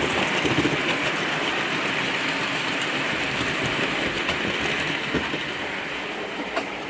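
OO gauge model train running along the track, a steady rolling rattle of wheels and motor with a few light clicks, easing off slightly near the end.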